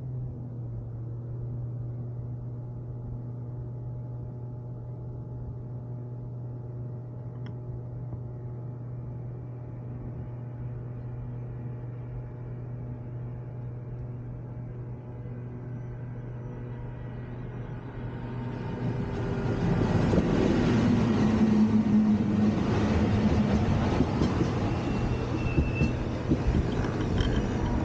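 Glacier Express train running: a steady low hum that swells into much louder, noisier running sound from about 19 seconds in.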